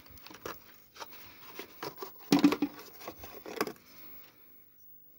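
A small cardboard lamp box being opened and handled: irregular rustles, taps and scrapes, loudest about two and a half seconds in, dying away about four seconds in.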